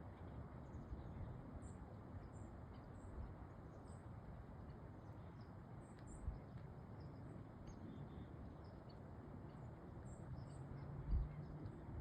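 Faint outdoor ambience: a steady low rush with small high chirps every second or so, and a dull thump near the end.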